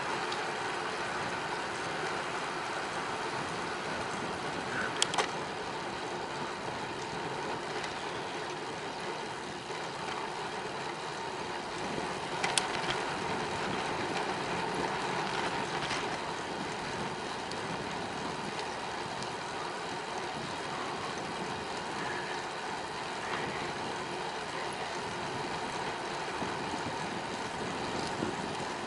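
Steady wind and tyre noise of a bicycle being ridden on a paved path, with sharp clicks about five seconds in and again about twelve seconds in.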